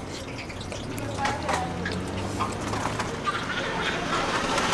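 Close-up wet chewing and mouth sounds of someone eating a loaded hot dog, with small clicks, over faint background voices and a low steady hum.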